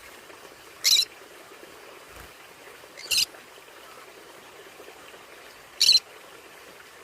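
Conure giving three short, sharp, high-pitched calls a few seconds apart, over a faint steady hiss.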